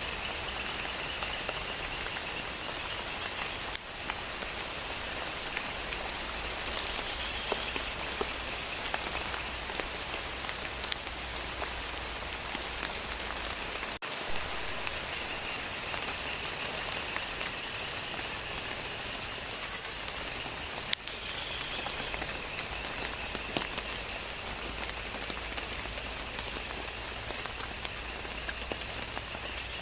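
Steady rain falling on leaves and surfaces. About two-thirds of the way through, a brief, very high-pitched sound comes over it twice, the first time the loudest.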